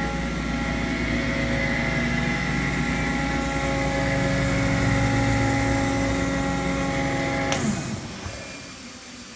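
Ingersoll Rand 10 hp rotary screw air compressor running steadily, a whine of several steady tones over a low hum. About three-quarters of the way through it shuts down with a sharp click, its pitch sliding down as it winds down, leaving a fainter hiss.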